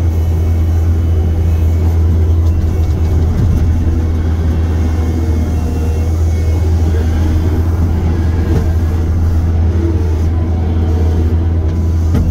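Diesel engine of heavy earthmoving equipment running steadily with a loud low drone, close to the microphone.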